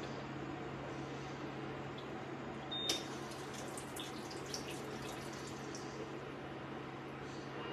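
Steady whir of a small electric space heater's fan, with a low hum under it; a sharp click sounds about three seconds in, followed by a few faint ticks.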